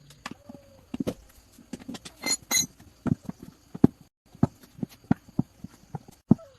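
Hand tools and metal engine parts knocking and clinking at an irregular, quick pace, with two ringing metallic clinks about two and a half seconds in. The sound drops out for a moment just past the middle.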